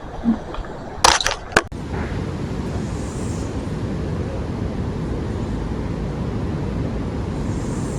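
Steady hiss of falling rain. A few sharp knocks come about a second in, then the rain noise holds even to the end.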